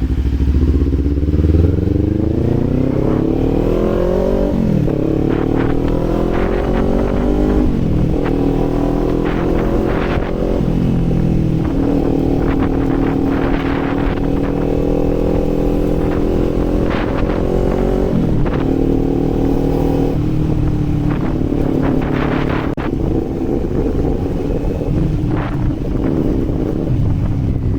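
Kawasaki Z400 parallel-twin engine under way: revs climb and drop sharply at upshifts about five and eight seconds in, hold steady for a stretch, then drop at two more shifts near the middle and run on steadily.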